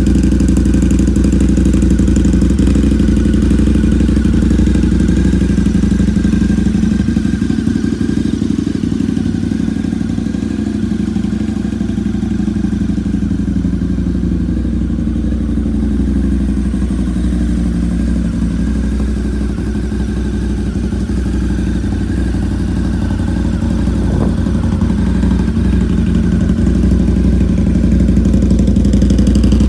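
2006 Harley-Davidson V-Rod CVO's liquid-cooled Revolution V-twin idling through an aftermarket Bassani exhaust. The engine speed dips slightly partway through and picks up a little near the end.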